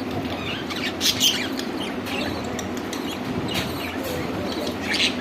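Budgerigars chirping in short, scattered calls, loudest about a second in and near the end, over a steady background hum.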